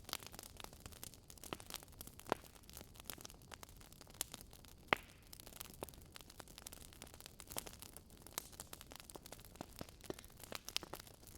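Wood fire crackling in a fireplace: a steady run of small irregular crackles with a few louder pops, the sharpest about five seconds in, over a faint hiss.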